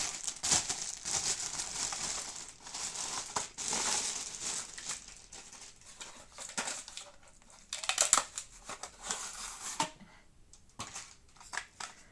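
Packaging crinkling and rustling as a vacuum cleaner's floor brush attachment is unwrapped and handled, dense for the first few seconds, then in short bursts and a few small clicks near the end.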